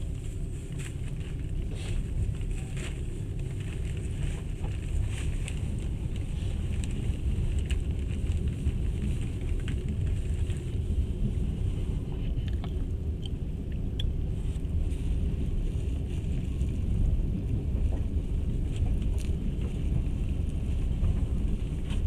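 Passenger train running, heard from inside the carriage: a steady low rumble of the wheels on the rails, with faint scattered ticks.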